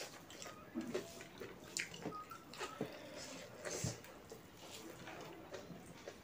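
Close-miked wet chewing and lip-smacking of a mouthful of rice eaten by hand, irregular, with several short sharp clicks and smacks.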